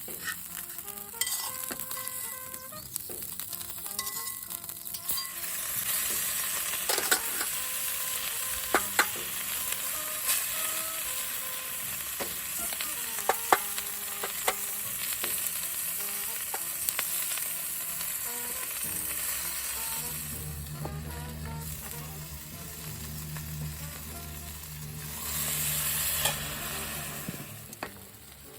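Food sizzling in a frying pan, with scattered sharp pops of spattering fat. The sizzle grows louder about five seconds in.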